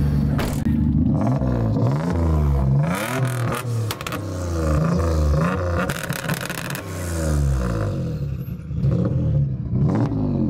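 Single-turbo Nissan 350Z's V6 engine revved hard again and again, its pitch climbing and dropping several times, with a few sharp cracks between the revs.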